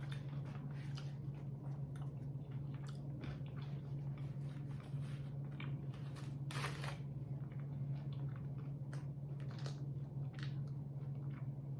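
Close chewing of a mouthful of crispy breaded chicken nugget and kale salad: irregular crunches all through, over a steady low hum.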